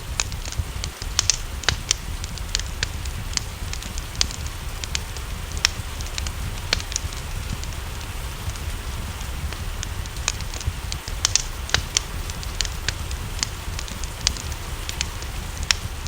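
Wood fire crackling, with frequent irregular sharp pops, over a steady low rumble and a soft hiss of rain.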